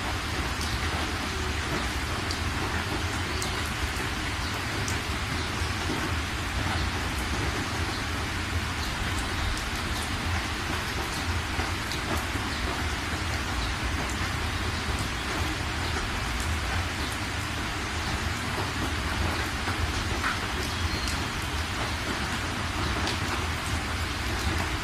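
Heavy rain drumming steadily on a moving car's windscreen and body, heard from inside the cabin, with scattered sharper drop hits and a low rumble underneath.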